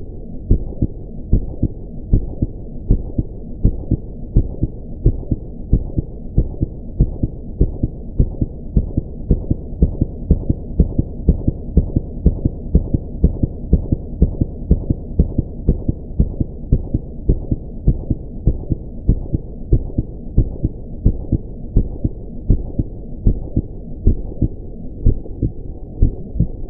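Human heartbeat beating steadily at about 80 beats a minute, each beat a pair of low, dull thumps.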